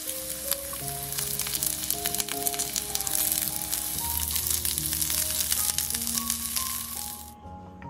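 Potato wedges and sliced onion sizzling and crackling in hot oil in a frying pan, with many tiny pops; the sizzle cuts off suddenly near the end. Background music plays underneath.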